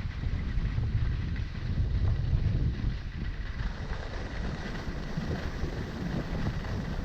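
Wind buffeting the microphone of a skier moving fast downhill, over the low rumble and scrape of skis running on hard, icy snow.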